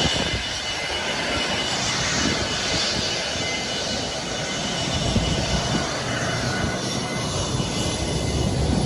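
A propeller airplane's engine running steadily, its low rumble growing louder about halfway through.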